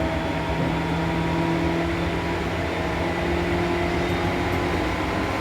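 Seibu New 2000 series electric train running at speed, heard from inside the car: a steady rumble of wheels on rail with a constant motor and gear hum.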